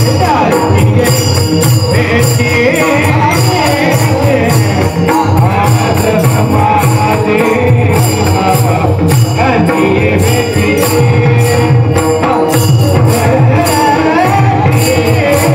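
Marathi devotional bhajan in its 'chal' rhythm: voices singing over a drum and clashing hand cymbals (taal) keeping a steady, driving beat without a break.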